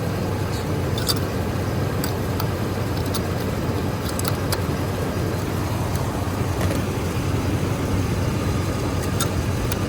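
Chevy 5.7 L V8 engine idling steadily, warmed up, with a scattering of light clicks over it.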